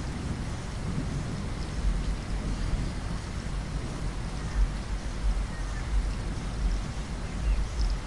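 Steady rain pattering against a window pane, with a deep, uneven rumble underneath.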